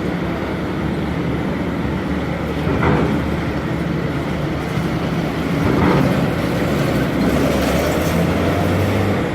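Heavy vehicles rolling off a ro-ro cargo ship's steel ramp: a steady engine rumble, with two clanks about three seconds apart. Near the end an engine note rises.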